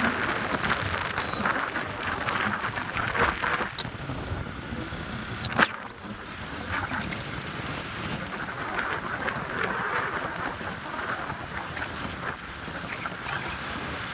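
Wind rushing over the microphone with a steady rumble of travel underneath, and one sharp knock about five and a half seconds in.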